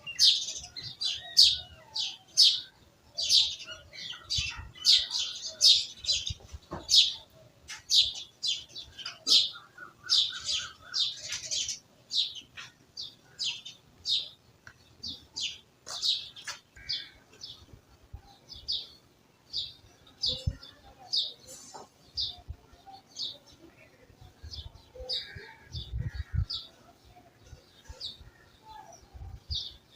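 Small birds chirping: a steady stream of short, high chirps repeated several times a second, densest in the first half and thinning out later, with a few dull low thumps past the middle.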